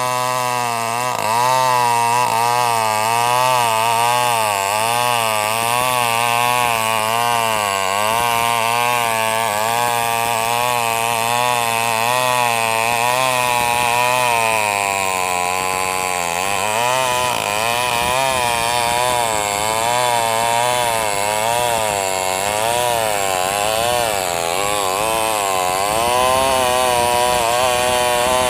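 New West NW588 small two-stroke chainsaw running under load, ripping lengthwise through sengon wood. Its engine pitch wavers up and down continuously as the chain bites, and sags more deeply a little past halfway before picking back up.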